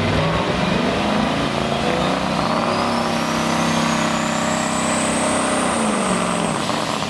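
Pro stock semi truck's diesel engine running hard under load pulling the sled, with a turbo whistle climbing steadily in pitch. The engine note drops about six seconds in.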